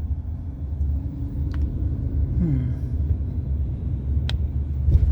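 Steady low outdoor rumble with a short falling tone midway and two sharp clicks, one early and one late.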